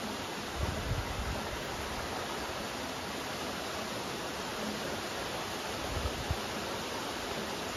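Steady rain, an even hiss with no let-up, with a few brief low thumps about a second in and again around six seconds.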